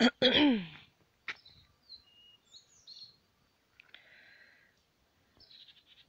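Faint, high songbird chirps and short whistled calls scattered through, after a brief loud voice sliding down in pitch at the very start.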